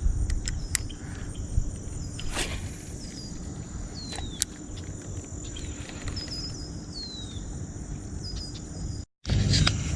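Outdoor morning ambience: a steady high-pitched insect buzz with scattered short, downward-sliding bird chirps over a low rumble. The sound drops out completely for a moment about nine seconds in.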